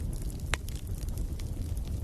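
Wood fire burning in a fireplace: a steady low rumble of flames with scattered crackles, and one sharper pop about half a second in.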